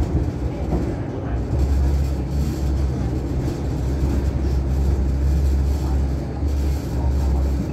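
Hong Kong Light Rail Phase V train running between stops, heard from inside the car: a steady low rumble of motors and wheels on the track.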